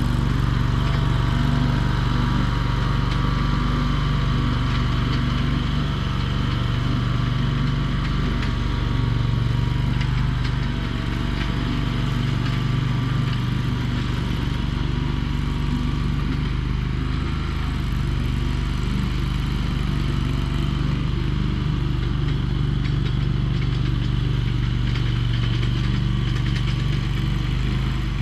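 Chinese mini skid steer's engine running steadily at a constant speed.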